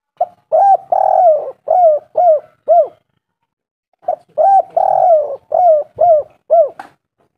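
Spotted dove cooing: two phrases of about six coos each, a short note and longer drawn-out coos followed by shorter arched ones, the second phrase starting about four seconds in.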